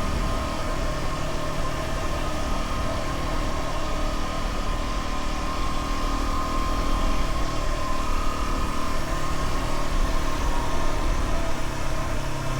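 Dual-sport motorcycle engine running steadily, without revving.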